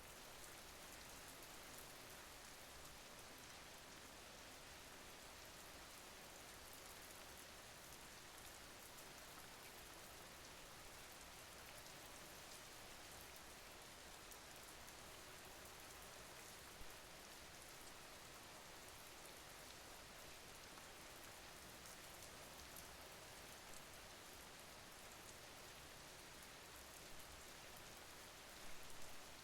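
Faint, steady rain, an even hiss of falling drops, with a brief soft tap a little past the middle and a few more just before the end.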